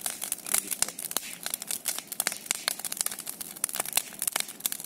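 Large bonfire crackling, with many irregular sharp snaps and pops over a steady hiss of burning.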